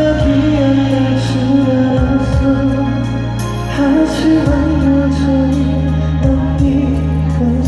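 Live pop ballad performance heard through a concert PA: a male voice sings a sustained melody over steady bass and keyboard chords.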